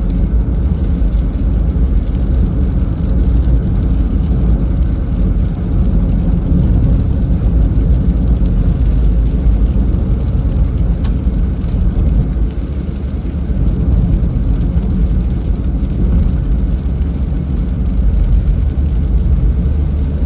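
A car driving: a loud, steady low rumble of road and engine noise, with little high-pitched hiss.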